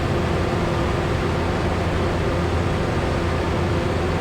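Steady drone of a Cessna 172's engine and propeller in flight, heard inside the cabin: an even low hum under a rush of air noise, with no change.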